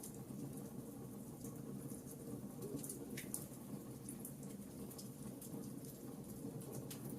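Wood fire burning in a fireplace, with scattered small crackles and pops over a steady low rumble.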